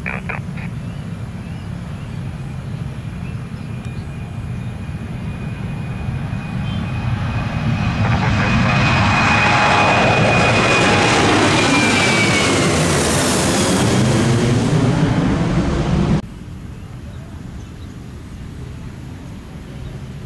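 Jet airliner taking off and passing low overhead: engine noise builds to a loud peak, with a high whine that slides down in pitch as it passes. The sound cuts off abruptly about 16 seconds in.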